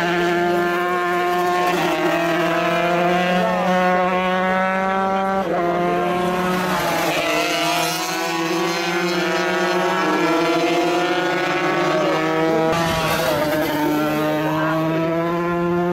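Several 125cc motocross bikes racing at once, their engines running hard, the pitch climbing and then dropping back in steps as the riders work the throttle and shift gears.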